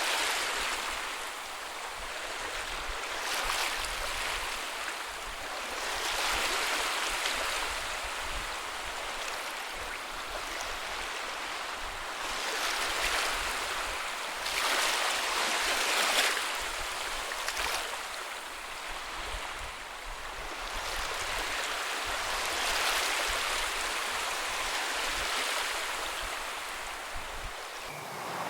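Ocean surf breaking and washing up a beach, a steady rush of water that swells into a fresh surge every few seconds, with a low fluttering rumble underneath.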